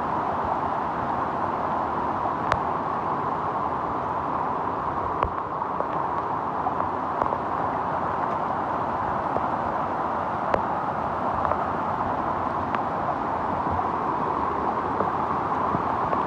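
A steady rush of water in heavy rain, with a few sharp ticks scattered through it.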